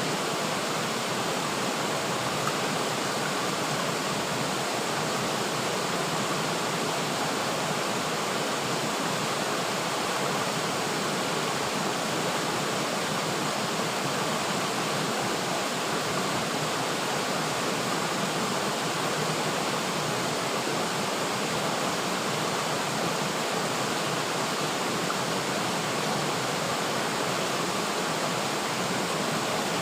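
River water flowing steadily over rocks, a continuous even rush with no breaks or changes.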